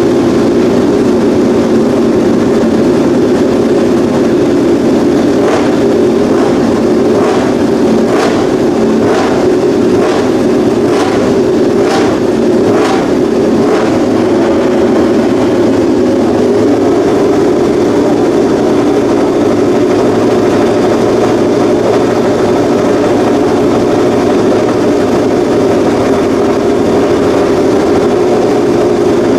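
Honda RC213V MotoGP bike's V4 engine running steadily, loud through its racing exhaust. Over a stretch in the first half comes a run of about ten short sharp cracks, roughly one a second.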